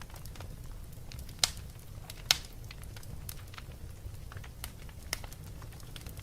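Wood fire in a fireplace crackling over a steady low rumble, with scattered sharp pops, two of them louder about a second and a half and two seconds in.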